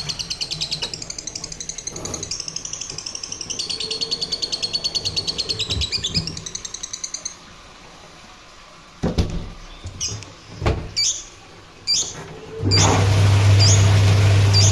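Washing machine spin motor switched on near the end, starting a steady low hum with a short high squeak about once a second. Before it come a few clicks, and earlier a rapid, even, high-pitched ticking.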